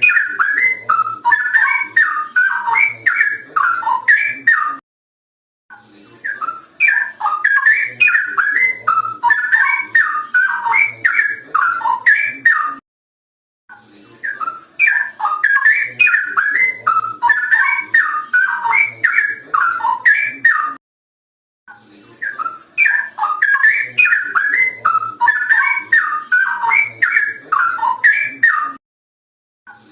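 Straw-headed bulbul (cucak rowo) singing loud, liquid warbling whistled phrases in song bouts of about seven seconds, each followed by a second of silence, the bouts repeating four times.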